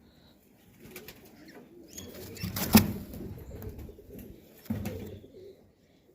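Domestic pigeons cooing in low calls, in two spells, about two seconds in and again near the end, with one sharp click partway through, the loudest sound.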